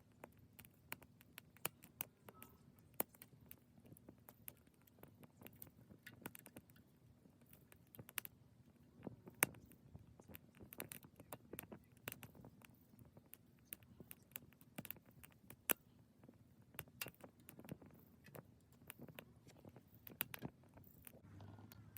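Small wood fire crackling in a Sierra stove, with faint irregular snaps and pops over a steady low hum from the stove's blower fan.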